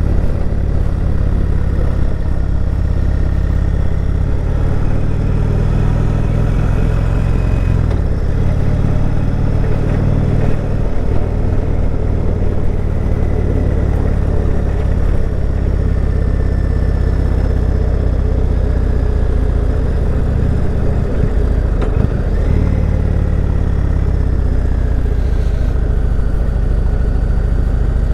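Indian Chieftain Dark Horse V-twin motorcycle engine running steadily while riding, its pitch shifting a little with the throttle, with wind rushing past the microphone.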